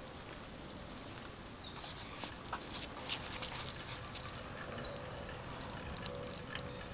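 Rain falling on a backyard patio: a steady hiss with scattered drops ticking, most of them between about two and four seconds in.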